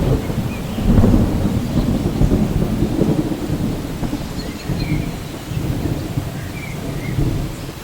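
Rainforest thunderstorm: steady rain with continuous rolling thunder that swells and fades, and a few faint short bird chirps high above it.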